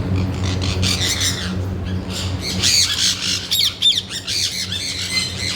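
Caged parrots squawking and chattering in a run of short calls with quick rises and falls in pitch, busiest in the middle, over a steady low hum.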